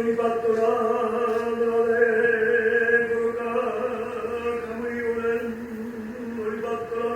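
A low, chant-like voice or drone holding one steady note, with a brief dip near the end, as in background music.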